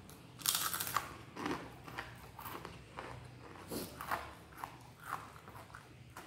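Biting into crispy fried chicken, with a loud crunchy bite about half a second in, followed by chewing in short irregular bursts.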